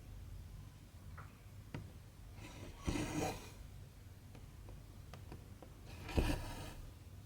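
Cotton embroidery thread drawn through cross-stitch fabric: two short rasping pulls about three seconds apart, with faint needle clicks between them.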